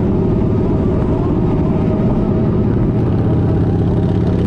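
Kawasaki Vulcan 1700 Vaquero's V-twin engine running at a steady pace.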